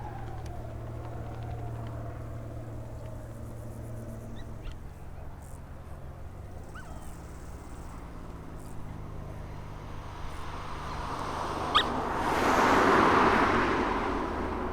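Light aircraft's piston engine running at a steady low drone, with a few faint bird chirps. Near the end a rushing swell rises and fades as a vehicle passes close.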